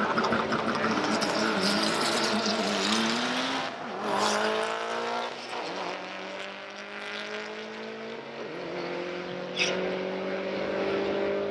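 Drag-racing cars accelerating hard down the strip. The engine note climbs in pitch, drops back at an upshift twice, then climbs slowly again. A short sharp pop comes about ten seconds in.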